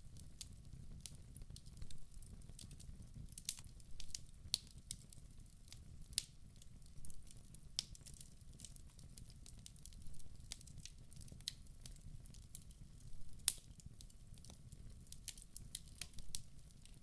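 Wood fire crackling in a fireplace: irregular sharp pops and snaps over a low steady rumble of the flames, with a louder pop about three and a half seconds in and another about thirteen and a half seconds in.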